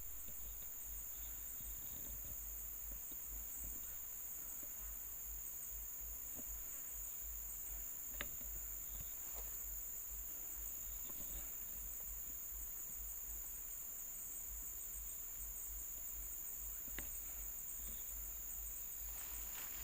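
Crickets or other forest insects keeping up a steady high-pitched drone, over a low fluttering rumble. A single sharp click sounds about eight seconds in.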